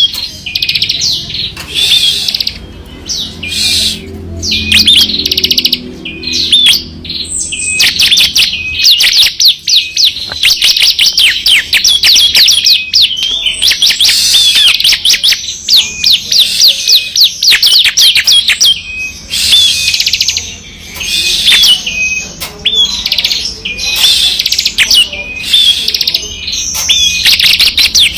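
Ciblek kristal (bar-winged prinia) singing in rapid, high-pitched trilled runs, the continuous machine-gun-like 'ngebren' song, with long unbroken runs in the middle.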